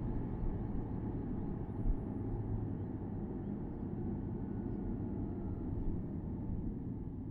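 Porsche Boxster S (987.2) flat-six engine running steadily at cruise, under low tyre and road rumble heard from the open-top cabin, with a single low thump about two seconds in.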